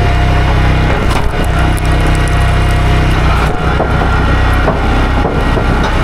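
A small gasoline engine runs steadily while wood cracks and splinters, with several sharp cracks through the sound.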